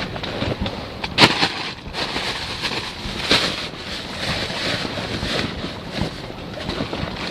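Waves slapping and sloshing against a small boat's hull, with wind buffeting the microphone. Two sharp knocks stand out, about a second in and about three seconds in.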